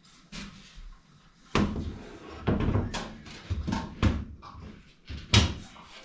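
A series of irregular knocks and thuds, about half a dozen, as parts of an electric fireplace are handled and fitted together during assembly. The loudest knock comes near the end.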